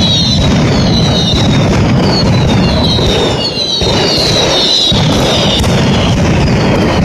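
Mascletà firecrackers going off in a dense, unbroken barrage of bangs with a low rumble. Whistling fireworks shriek over it, each falling in pitch, about once a second.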